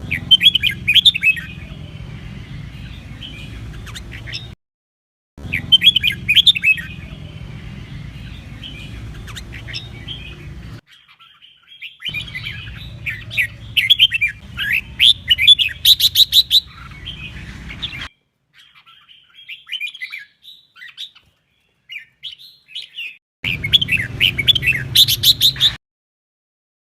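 Red-whiskered bulbul singing: rapid bursts of quick warbling and chattering phrases over a low steady hum. The recording stops dead several times, leaving short gaps of silence between spliced stretches of song.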